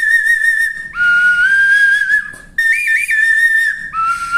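Maurílio Coelho wooden bird-call whistle with finger holes, played as a tune in the style of a Western film theme: clear whistled notes with quick trills, stepping up and down in pitch. The short phrase is played twice, with a brief break between.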